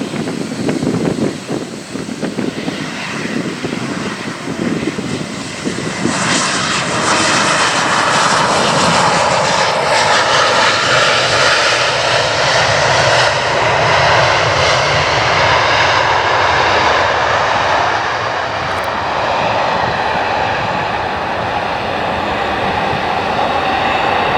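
Bombardier CRJ-900 regional jet's twin GE CF34 turbofan engines running. The noise grows much louder about six seconds in and then stays loud.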